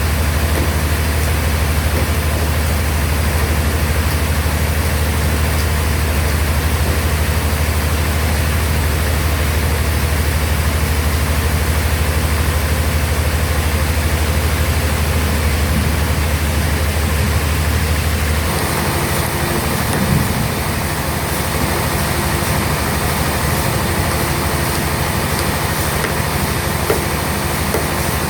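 A sawmill bandsaw running with a steady, loud low machine hum. About two-thirds of the way through, the hum changes and a different steady tone takes over, then returns near the end.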